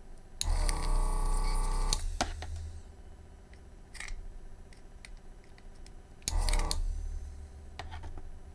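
Vacuum pump of a Yihua 948 desoldering station buzzing in two bursts as the gun's trigger is pressed to suck molten solder off a board pin: a longer run of about a second and a half near the start, then a short one about six seconds in. Each starts and cuts off suddenly. Faint clicks and taps from the work are heard in between.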